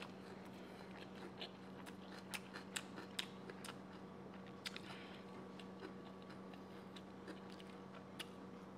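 Faint mouth sounds of a person chewing a mouthful of biryani, with soft scattered clicks, over a steady low hum.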